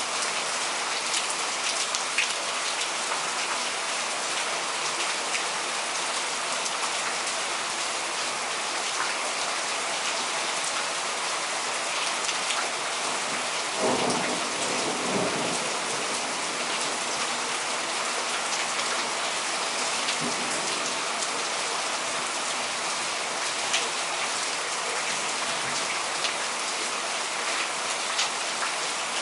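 Heavy thunderstorm downpour pouring steadily, with drops clicking on surfaces, and a roll of thunder rumbling up about halfway through.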